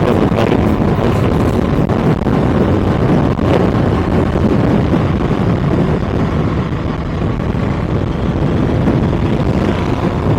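Kawasaki ZX-6R's inline-four engine running steadily on the move, mixed with wind rushing over the microphone.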